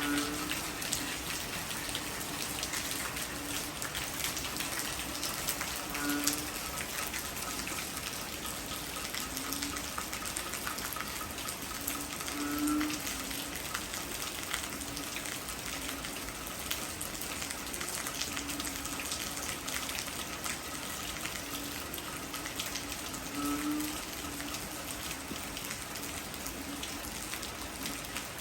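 Heavy rain falling, a steady dense patter of drops, with a short low tone recurring every few seconds.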